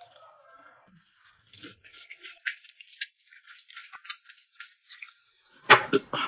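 A person chewing food close to the microphone: a quick run of wet clicking and smacking mouth sounds. One louder short sound comes near the end.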